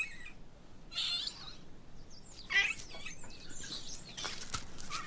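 Yunnan snub-nosed monkeys giving several short, high-pitched squeaking calls that bend up and down in pitch, spaced a second or so apart.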